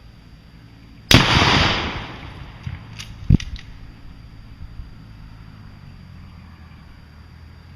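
A single gunshot about a second in, its report and echo dying away over about a second. A few fainter clicks and one short, sharp knock follow about two seconds later.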